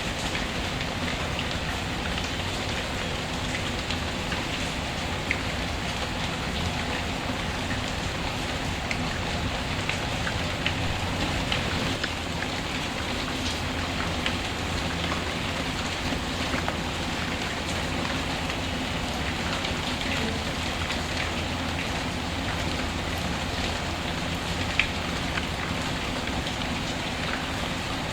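Steady rain falling on a surface, with a few isolated sharp pops scattered through it, the most distinct one near the end.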